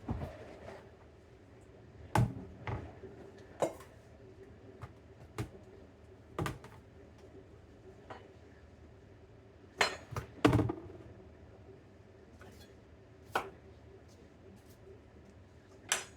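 Kitchen prep handling sounds: about a dozen separate knocks and clinks of utensils and dishware being set down and picked up, a second or more apart and irregular, the loudest pair about ten seconds in. A faint steady hum runs underneath.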